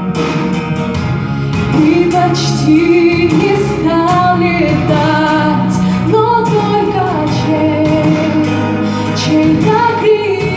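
A song: a woman singing held notes with vibrato over instrumental accompaniment.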